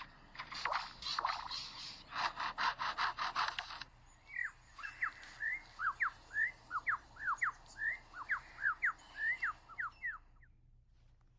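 Male superb lyrebird mimicking a chainsaw as a run of rasping pulses, about seven a second, that stops sharply about four seconds in. For the next six seconds it gives a quick series of sharp whistled notes sliding up and down.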